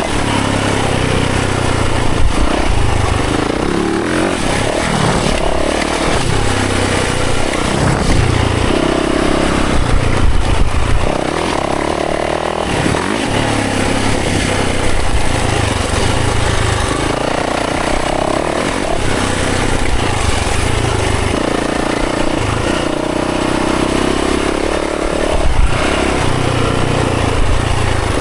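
Dirt bike engine riding a trail, its revs climbing and dropping over and over as the throttle is worked, with a few sharp knocks along the way.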